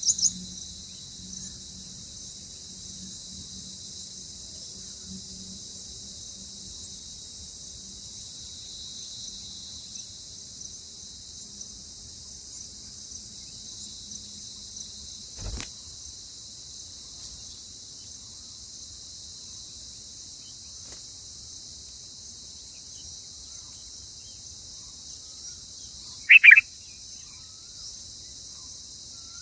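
Steady high-pitched chorus of crickets or similar insects. About halfway through comes a single knock, and near the end a single short, loud bird chirp falling in pitch.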